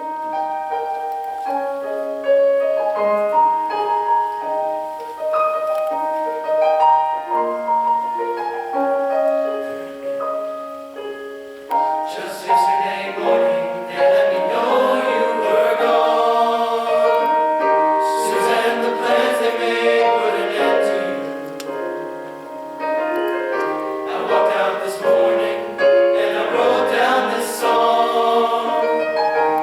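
Piano introduction of separate held notes, then a men's chorus comes in singing with piano accompaniment about twelve seconds in.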